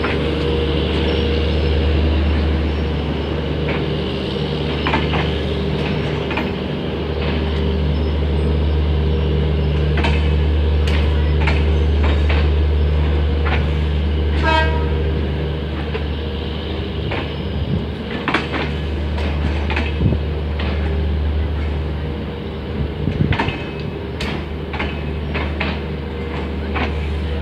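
Passenger train running on track: a steady low rumble with irregular clicks and clacks of wheels over rail joints. There is one brief pitched squeal about halfway through.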